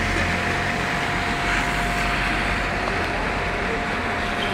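Heavy rain falling as a steady hiss over a car engine's low running rumble, with a thin steady tone underneath.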